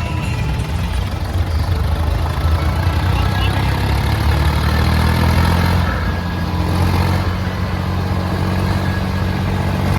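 Tractor diesel engine running steadily and loudly, a little louder around the middle.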